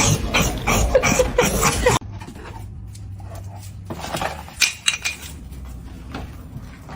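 A dog vocalising loudly for about two seconds, then after a sudden cut, a few light clinks and knocks like dishes or cutlery about four and a half seconds in.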